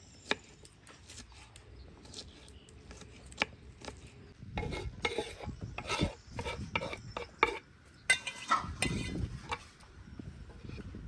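Intermittent scraping and rubbing with scattered light knocks, in two busier spells partway through and near the end.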